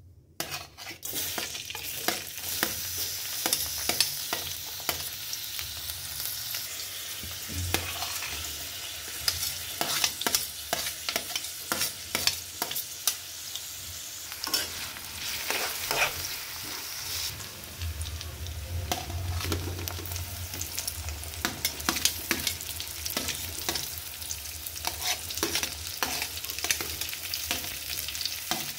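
Chopped onions and garlic frying in hot oil in a metal wok: a steady sizzle that starts as they go in, with frequent clicks and scrapes of a metal spatula stirring them against the pan.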